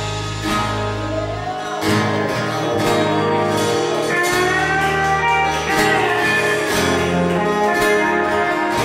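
Country band playing the instrumental ending of a song, led by guitar with gliding, held notes over the full band.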